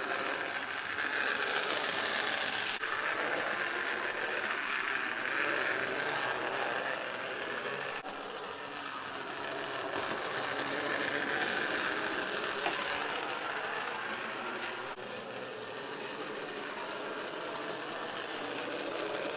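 Bachmann HO-scale Toby and Thomas model locomotives running together along the track with the coaches: small electric motors whirring and wheels rolling on the rails. Toby's motor is still sluggish, not yet warmed up.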